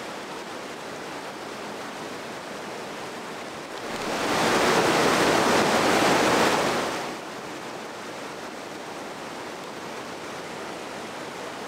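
Mountain river rushing over rocks in rapids: a steady noise of running water, growing louder for about three seconds in the middle.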